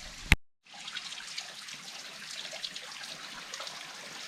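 Small waterfall at low summer flow, water trickling and splashing over rocks in a steady hiss. A sharp click and a moment of silence come about a third of a second in.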